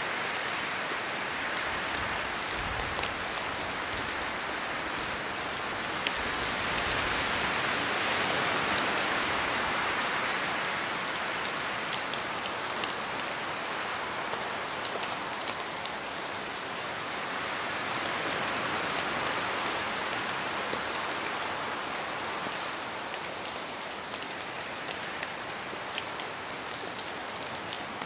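Steady rain falling with wind, the hiss slowly swelling and easing in long waves, with many small drops ticking sharply.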